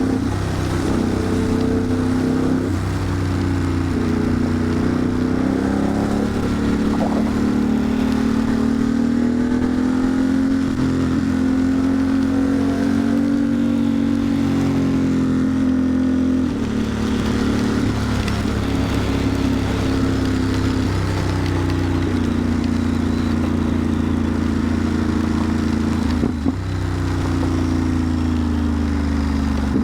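Ducati Monster's L-twin engine under way, its pitch rising and falling several times as the rider speeds up, changes gear and eases off, over steady wind and road noise.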